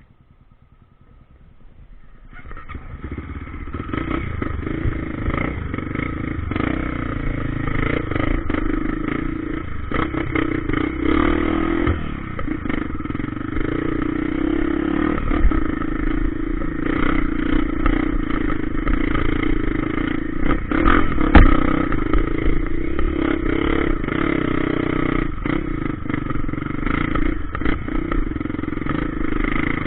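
Dirt-trail motorcycle engine getting under way and then running steadily while riding over rough ground, with frequent clattering knocks. It is quiet for the first couple of seconds, then builds up over the next two.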